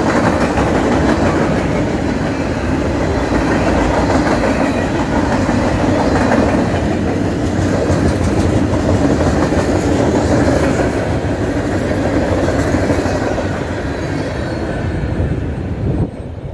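Canadian National manifest freight cars, covered hoppers and a lumber-loaded centerbeam flatcar, passing with their steel wheels running on the rails in a loud, steady noise. The sound drops suddenly near the end as the last car goes by.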